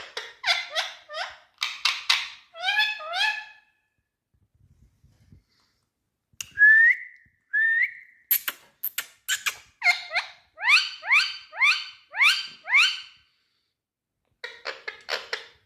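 Indian ringneck parakeet calling in quick runs of repeated, harsh notes that each fall in pitch. About halfway through come two short rising whistles, followed by another long run of falling calls.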